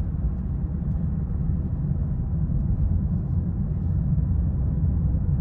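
2020 BMW 330i on the move: a steady low rumble of road and engine noise with no change in pitch.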